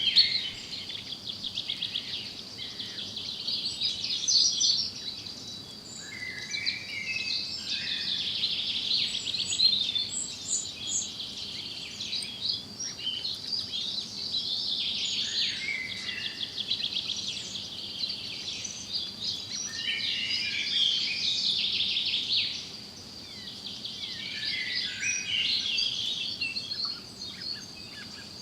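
A chorus of several songbirds singing and calling at once, with overlapping chirps, trills and rapid twittering that rise and fall in loudness, over a steady thin high-pitched tone.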